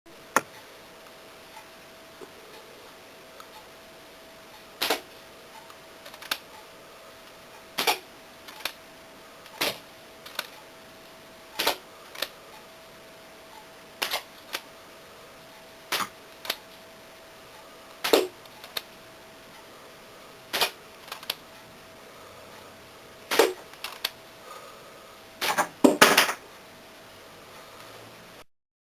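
Homemade semi-automatic disposable-chopstick rubber band gun firing: sharp snaps of the mechanism releasing a band, one every second or two, some in quick pairs, and a rapid burst of several shots near the end. A faint steady hum sits underneath.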